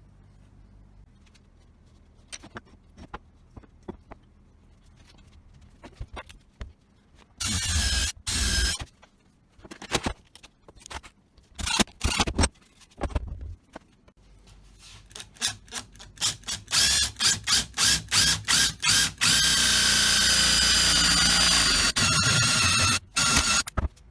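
Power tool started in short bursts, then pulsed quickly several times, then run steadily for a few seconds with a high whine. Light clicks and handling noises come before it starts.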